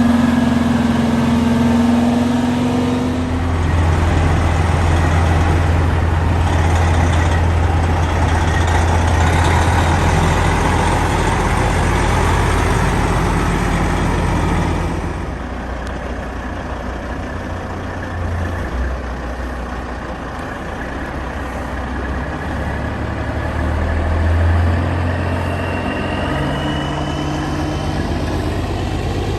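Heavy diesel semi-truck engines running, loud with a deep rumble for the first half, then dropping about halfway through to a quieter engine sound. A steady low tone sounds over the engine for the first three seconds.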